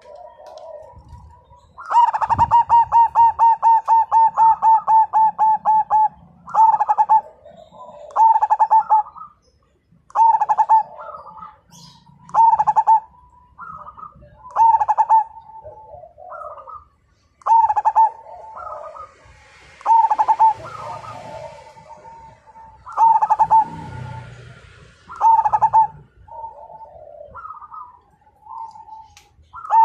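Zebra dove (perkutut) cooing: a fast run of clear notes starts about two seconds in and lasts some four seconds, then short cooing phrases repeat about every two seconds, with softer, lower notes between them.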